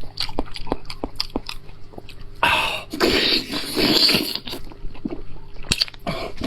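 A person chewing fatty red-braised lamb chop meat, with a quick run of wet mouth clicks and smacks, then a louder, denser stretch of chewing noise in the middle.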